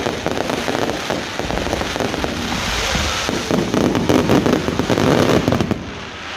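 Fireworks display: a dense, continuous crackling and popping of many firework bursts. The crackle dies down near the end.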